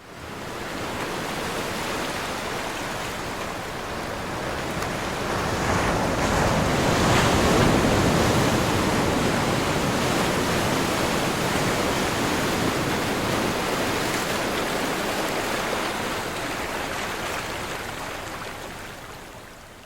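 Ocean surf breaking and rushing: a steady wash of water that swells to its loudest about seven seconds in and fades away near the end.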